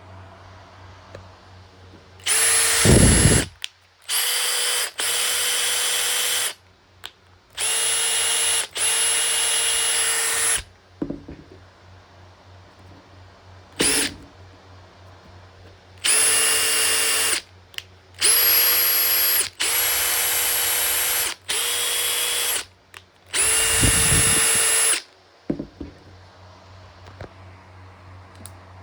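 Makita TP141D cordless impact driver's motor run in about eight separate trigger pulls of one to four seconds each, each burst a steady whine at an even pitch, with one very short blip between them.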